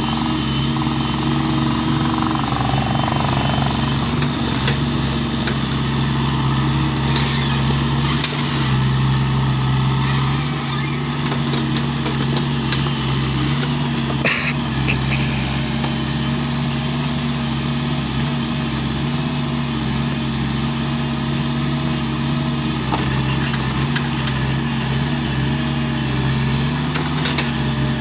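Hydraulic excavator's diesel engine running steadily under digging load, its pitch shifting slightly now and then.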